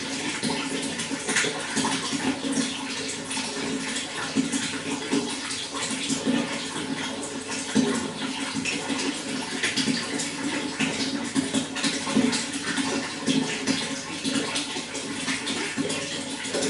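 Water running and splashing steadily, a continuous gurgling flow with small rapid splashes.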